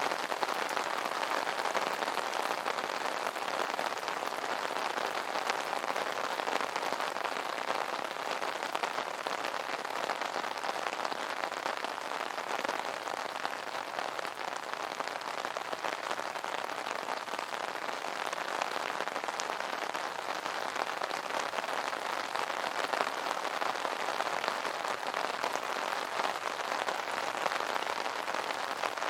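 Steady rain pattering on an umbrella canopy: a dense, even spread of drop impacts with no let-up.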